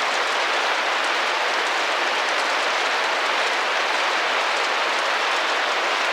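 Steady rain pattering against a window pane, an even hiss of drops with no let-up.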